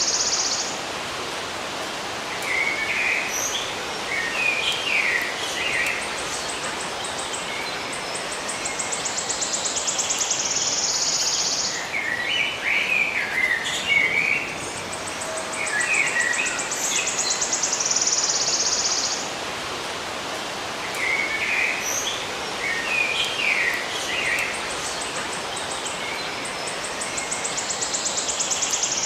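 Birds chirping in short clusters and an insect's high, pulsing trill over a steady background hiss. The same few-second sequence repeats about every nine seconds, as a loop.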